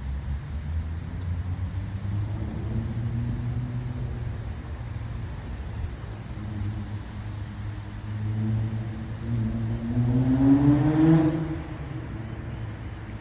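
A motor vehicle's engine running, rising in pitch and getting louder as it revs up about ten seconds in, then dropping back.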